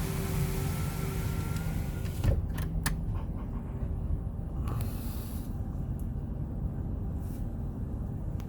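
Automatic car wash bay heard from inside the car, with the engine idling as a steady low rumble. A hiss cuts off about two seconds in with a thump and a few clicks, and brief hisses and knocks follow as the wash machinery starts up.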